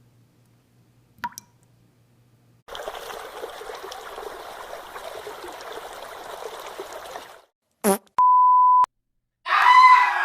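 A run of separate sound effects. First a faint low hum with a single click, then about five seconds of steady hissing noise that sounds like water. After a short burst comes a steady single-tone beep about half a second long, like a censor bleep, and near the end a loud pitched effect begins that falls in pitch.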